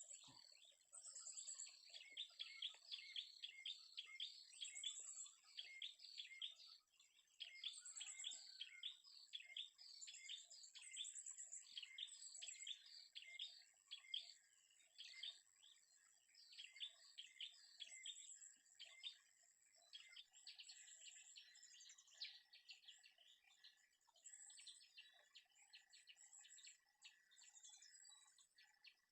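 Faint forest birdsong: quick runs of chirping notes, with a steady high-pitched insect buzz and a short pulsing note about every two seconds.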